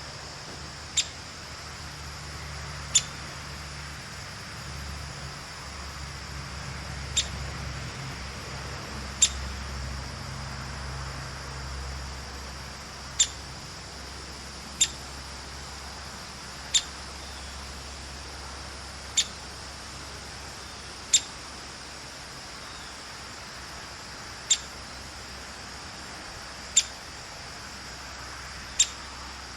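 Downy woodpecker giving its short, sharp "pik" call, one note about every two seconds, some dozen times.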